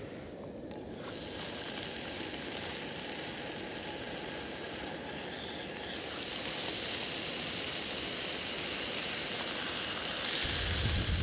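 Bacon rashers sizzling in a frying pan on a portable gas camping stove. The sizzle grows louder and brighter about six seconds in as more rashers go into the pan, with a low rumble near the end.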